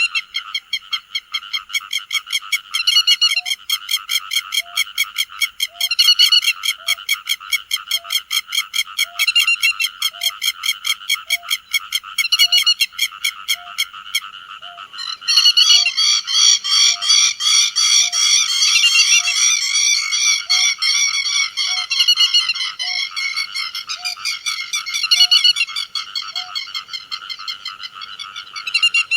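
Grey-headed lapwing calls, a loud run of sharp, rapidly repeated notes. From about halfway the calls grow denser and louder, as if several birds are calling at once.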